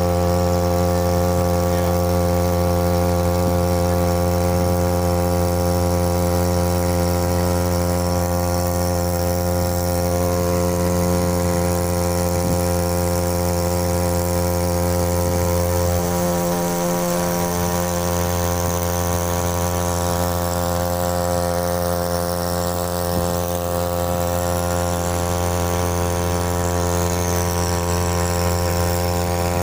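Small 3 hp two-stroke, air-cooled outboard motor (Matsumoto MOB-830) running steadily at a constant speed, pushing an inflatable boat.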